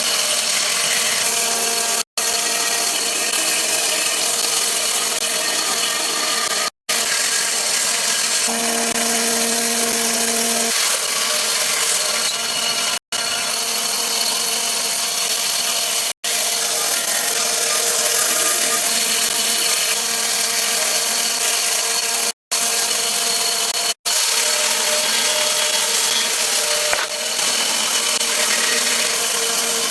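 A power tool working wood, running steadily with a dense, buzzing machine noise. It is broken several times by brief sudden dropouts to silence.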